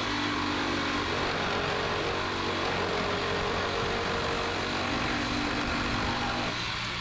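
A power tool running steadily: a loud hiss over a low motor hum, dropping away about six and a half seconds in.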